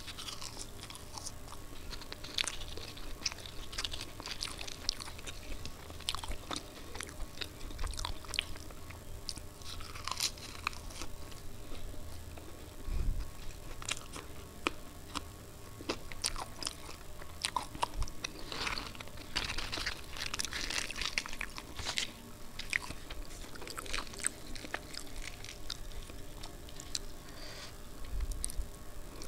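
Close-miked chewing and biting of puri with dum aloo potato curry and ghugni: a steady run of small, crisp mouth clicks, with a few dull low thumps.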